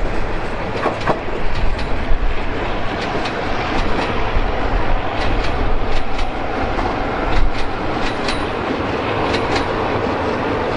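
Passenger train coaches rolling past on a curve, with a steady rolling noise and many sharp, irregular wheel clacks over the rail joints.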